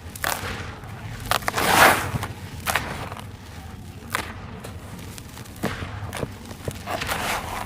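Lumps of gritty red sand crumble being broken and crushed, giving irregular crisp crunches and sharp snaps, the loudest about two seconds in.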